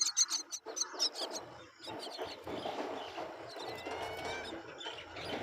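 Myna chicks calling: a quick run of high, harsh chirps, about eight a second, for the first second or so. Then a duller, steadier mix of lower sounds with a few faint rising whistles.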